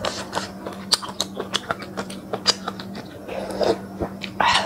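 Close-up eating sounds: a person chewing and smacking on spicy noodles and octopus, with quick sharp clicks of chopsticks and a spoon in a glass bowl, and a louder breathy mouth sound near the end. A steady low hum runs underneath.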